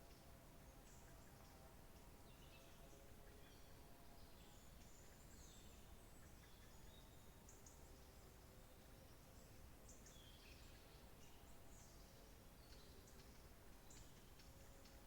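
Faint birdsong: several birds giving many short chirps and brief trills throughout, over a soft steady background hiss.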